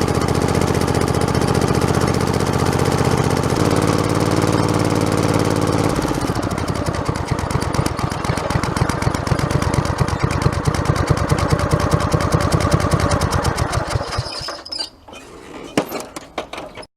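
Modified lawn tractor's engine running, then about six seconds in it drops to a slower, rougher run with each firing beat distinct, like settling to idle. Near the end the engine sound stops, leaving a few faint clicks.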